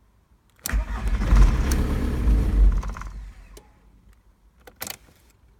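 Starter motor cranking the Golf Mk3's 1.9 TDI diesel for about two and a half seconds, then dying away without the engine settling into running: a no-start. A few sharp clicks follow near the end.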